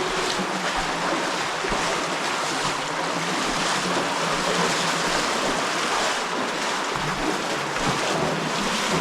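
Steady rush of a cave stream running high after heavy rain.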